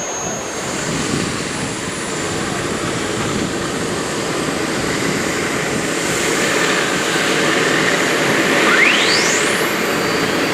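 Pulling tractor running hard at full throttle down the track, growing steadily louder, with a whistle that rises steeply in pitch about nine seconds in.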